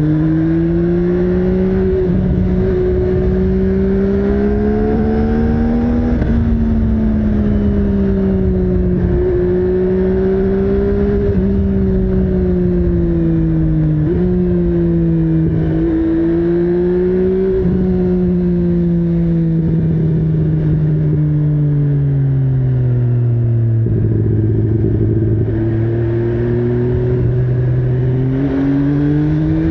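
MV Agusta Brutale 800's three-cylinder engine on the move, its note climbing and falling through the gears with short breaks at the shifts. It drops to a lower, steadier pitch for a few seconds near the end before pulling up again.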